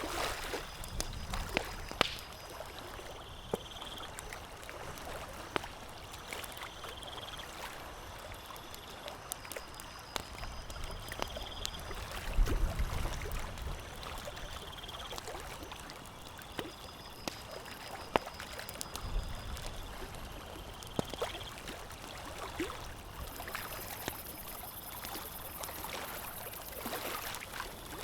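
Campfire crackling, with sharp pops scattered irregularly over a soft wash of water. Short high chirping calls recur every few seconds.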